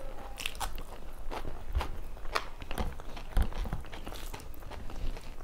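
Close-up eating sounds: a person chewing and crunching food, with irregular sharp crunches and clicks, the loudest about three and a half seconds in.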